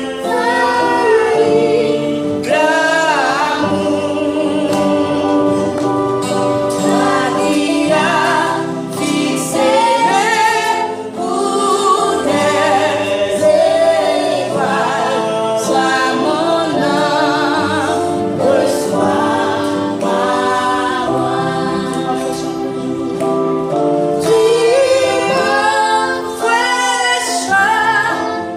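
A woman and a group of children singing a gospel song together, several voices holding long notes with vibrato.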